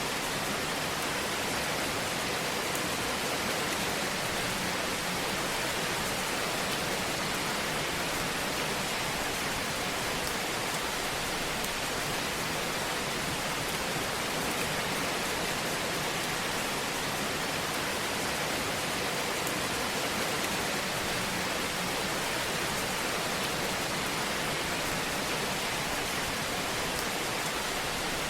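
Fire burning in a fireplace: a steady, even hiss with a few faint small crackles.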